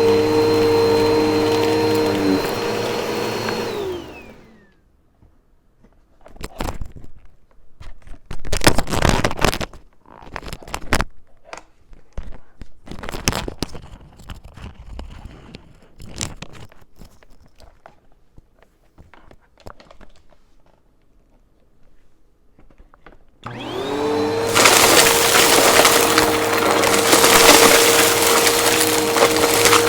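Upright vacuum cleaner running, then switched off about four seconds in, its motor whine winding down in pitch. Scattered knocks and clicks of handling follow. Near the end the vacuum is switched on again, its motor spinning up and running with dense crackling, the crunch of debris being sucked up.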